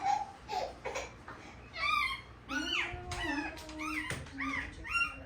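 Newborn puppy whining and squealing: several short, high-pitched cries that rise and fall, coming quickly one after another in the second half.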